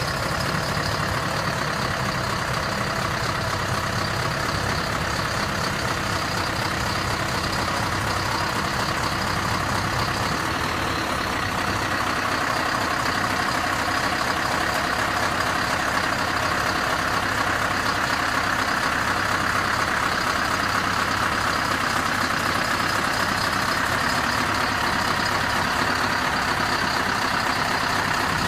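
Big truck's engine running steadily, at an even level throughout.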